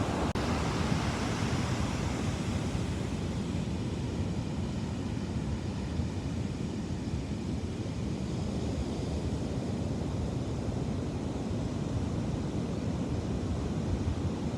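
Ocean surf washing onto a beach in a steady roar of noise, with wind buffeting the microphone.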